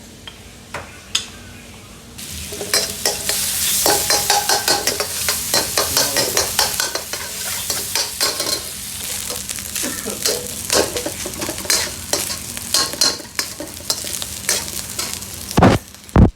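Food sizzling in a hot pan while it is stirred with a metal spoon, with rapid scraping and clattering against the pan. The sizzle starts about two seconds in, and there are two loud knocks near the end.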